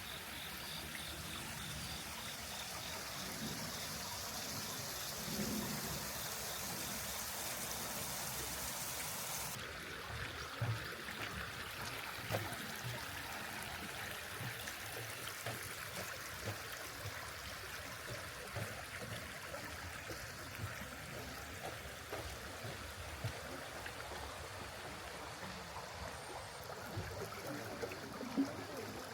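Running water, a stream trickling and splashing, in rainy weather. About ten seconds in, the bright hiss drops away abruptly, leaving softer flowing water with scattered small drips and ticks.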